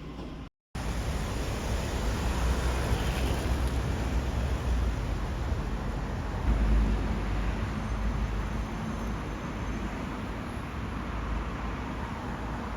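Steady road traffic noise with a low rumble of passing cars, starting after a brief silent break about half a second in.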